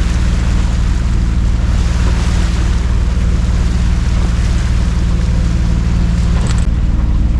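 A yacht under way, with a steady low engine hum under the rush of water and wind on the microphone. There is a brief click about six and a half seconds in.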